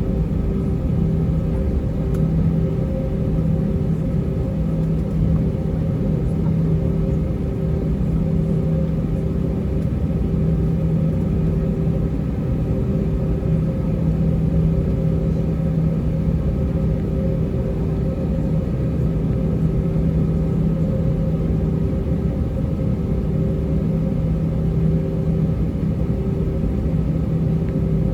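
The IAE V2500 engines of an Airbus A320 at taxi idle, heard inside the cabin: a steady hum over a low rumble, with a few steady tones that do not change.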